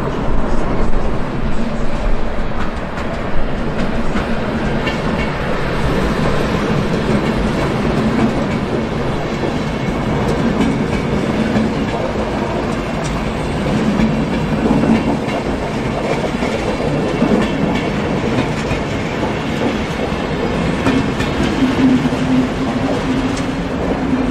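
A train hauled by a Siemens Vectron electric locomotive running past on the rails: a steady rumble with wheels clicking over rail joints. A low hum grows stronger near the end.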